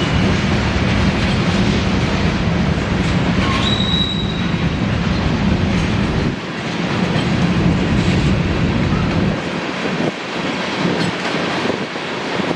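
A freight train rolling past, its wheels rumbling and clattering on the rails, with a brief high wheel squeal about four seconds in. The low rumble eases off about nine seconds in.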